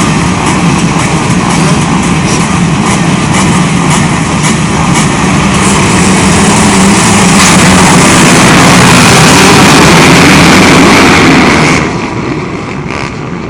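A pack of 85 cc two-stroke motocross bikes revving hard together in a dense, loud engine din. It swells to its loudest in the second half and falls off suddenly near the end.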